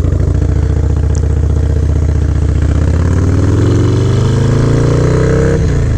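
Harley-Davidson Low Rider S V-twin with an aftermarket Fab 28 exhaust pulling away: it runs low at first, then the revs climb steadily for a few seconds and drop sharply at a gear change near the end before it pulls on.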